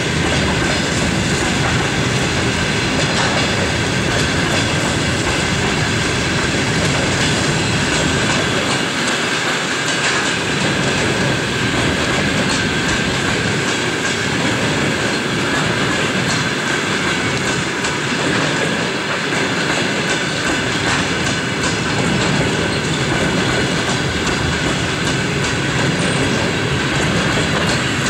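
Passenger coaches rolling past on steel wheels, clicking over rail joints, with a steady high wheel squeal running under the rolling noise.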